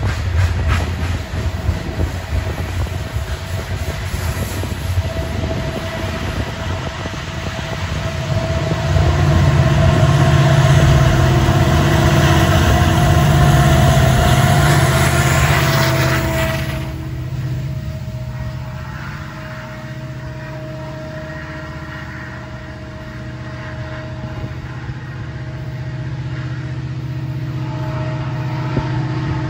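Loaded coal hoppers rolling past with wheel-on-rail rattle. Then the rear diesel locomotive of the coal train passes beneath, louder, its engine humming with a steady tone. Its sound cuts down suddenly a little over halfway through and leaves a lower rumble as the train moves away.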